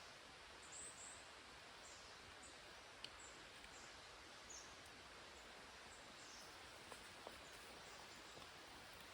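Near silence: quiet natural ambience with faint, short, high bird chirps every second or two and a few soft ticks.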